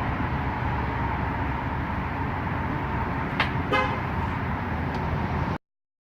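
Steady car road and engine noise. A sharp click comes a little past halfway, then a brief pulsing sound, and the sound cuts off abruptly near the end.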